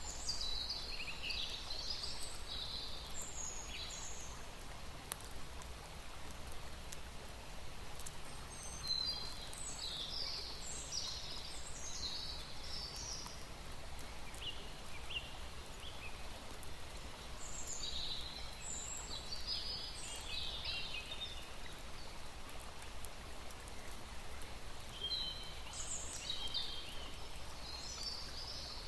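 A songbird singing short bursts of high, quick chirping notes, one burst roughly every eight seconds, over a steady hiss of outdoor background noise.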